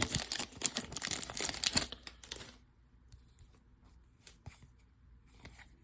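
A baseball card pack's wrapper being torn open and crinkled for about two and a half seconds, then a few faint clicks and rustles as the cards are handled.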